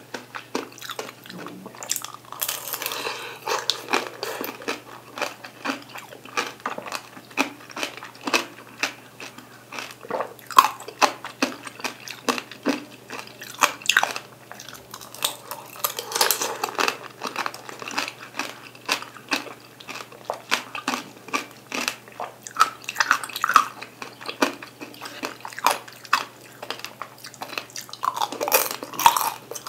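Peeled mandarin orange segments being bitten and chewed, a steady run of small mouth clicks and smacks with a louder bite every few seconds.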